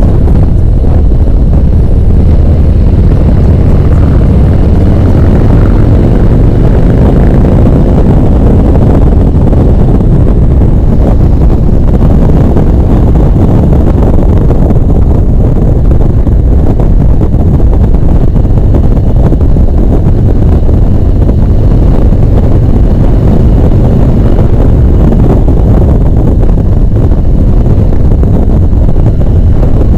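Harley-Davidson V-twin motorcycle engine running under way at road speed, with a steady low rumble and the pitch shifting slightly with throttle early on. Wind buffets the helmet or action-camera microphone.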